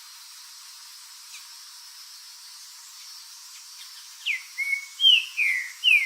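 A bird singing a quick run of about five loud, clear whistles, most of them sliding down in pitch and one held level, starting about four seconds in. Before that there are only a few faint chirps over a steady high hiss.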